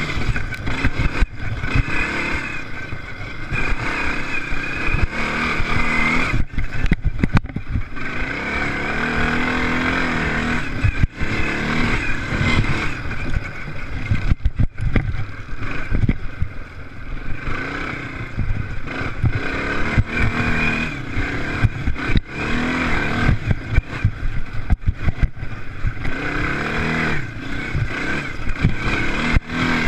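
Off-road racing engines revving hard, pitch rising and falling repeatedly as the riders accelerate and shift, with brief sudden dips in the sound.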